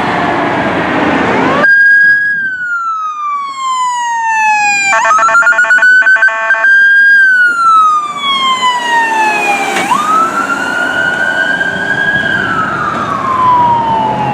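Emergency vehicle's electronic siren wailing, its pitch sliding slowly down and back up several times, with a short stretch of fast pulsing about five seconds in. Traffic noise comes first and gives way to the siren after about a second and a half.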